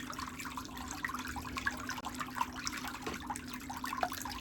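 Water in a pedicure foot bath sloshing and trickling with many small splashes and drips as a foot is put back in to soak, over a steady low hum.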